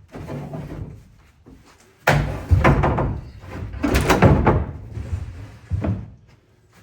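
A bed platform panel being slid into a truck bed and laid down: scraping and shuffling, then a series of loud knocks and bumps as it drops and settles into place, the last knock about six seconds in.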